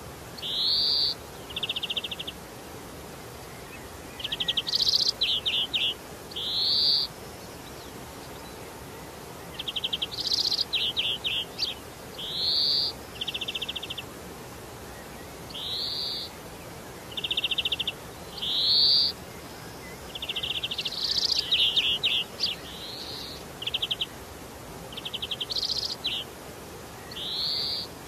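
Bird calling: high, short upward-sweeping notes alternating with buzzy, rattling trills, repeated every second or two.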